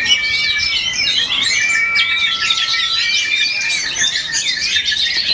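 Oriental magpie-robin (kacer) song: a dense, unbroken run of whistles, sliding notes and chirps, with several birds singing over one another.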